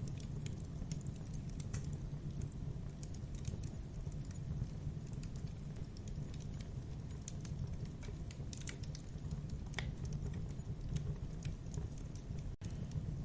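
Wood campfire crackling, with irregular sharp pops and snaps over a steady low rumble of burning. The sound cuts out for an instant near the end.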